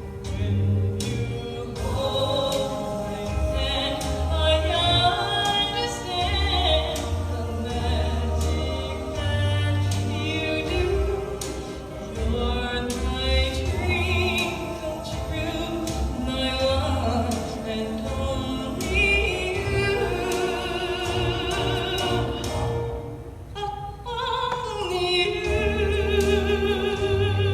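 A song with a singing voice over a steady beat and bass accompaniment.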